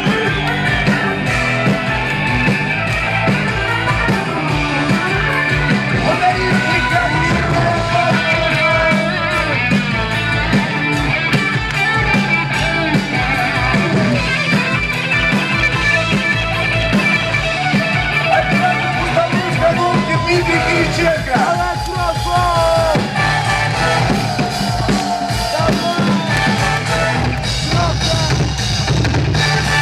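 Live rock band playing an instrumental passage of the song, with drum kit, bass and guitar keeping a steady beat.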